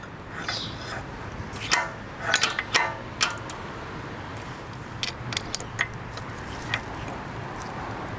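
Light metallic clicks and clinks of hand tools and a D.I.D. KM500R chain press tool being handled and tightened onto a motorcycle chain's master link, in two clusters, the first about two seconds in and the second about five seconds in.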